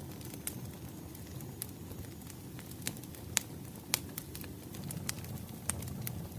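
Wood fire crackling: a steady low rumble of burning logs with irregular sharp pops, the two loudest a little past the middle.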